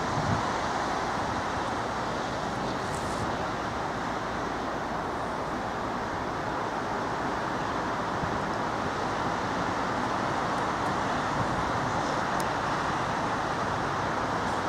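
Passenger train running past with a steady rolling noise that holds even throughout.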